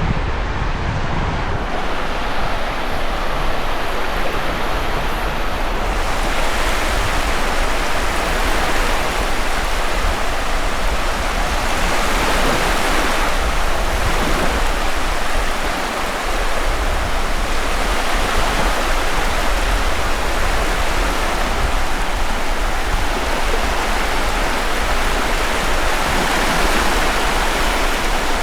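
Sea surf washing onto a beach: a steady rush of waves that swells louder at times, strongest about twelve seconds in.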